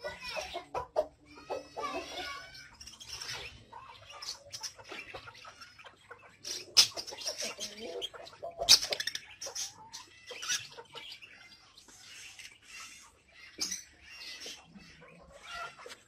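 Pet birds calling: budgerigars chattering and warbling with scattered chirps, and a few sharp knocks, the loudest about seven and nine seconds in.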